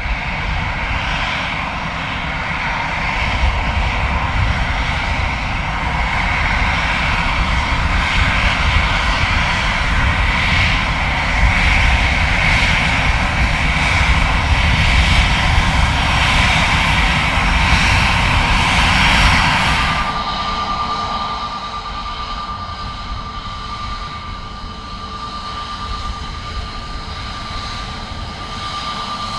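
Airbus A320neo turbofan engines running loud and steady, with a whine over a deep rumble. About two-thirds of the way through, the sound changes suddenly to a quieter, steady engine noise with one clear high whine.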